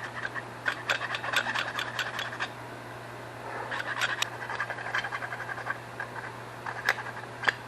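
Round file rasping in quick repeated strokes on the mushroomed edge of a brass throttle-shaft bushing set in an aluminum carburetor base plate, smoothing the bore round again. The strokes pause for about a second a third of the way in, then resume.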